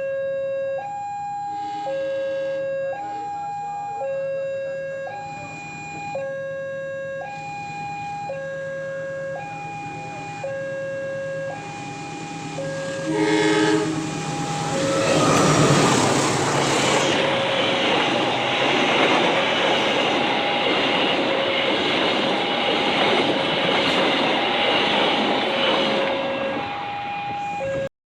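Level-crossing warning alarm sounding a steady alternating two-tone signal. About halfway through a train sounds a short horn blast, then passes loudly over the crossing while the alarm keeps going underneath.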